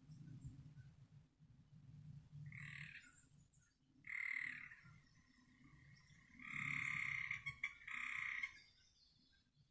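A frog calling: three pitched trills, the last and longest lasting about two seconds.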